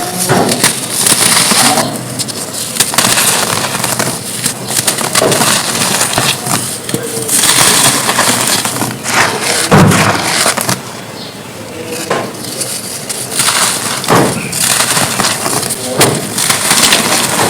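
Dried red dirt cones being crushed and crumbled: dense gritty crunching and crackling made of many small snaps, with one heavier crunch about ten seconds in.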